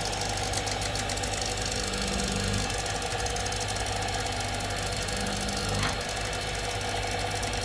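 A workshop machine's motor running steadily with an even hum, with one short sharp sound about six seconds in.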